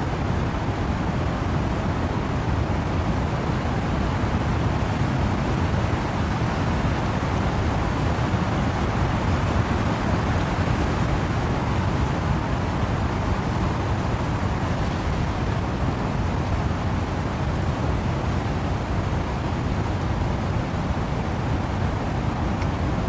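Steady wind and rain in trees, an even rushing noise heaviest in the low end, with no single drops or gusts standing out.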